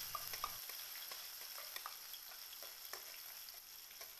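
Blended chili sambal paste sizzling in hot oil in a wok, a faint steady frying hiss with scattered small pops and clicks.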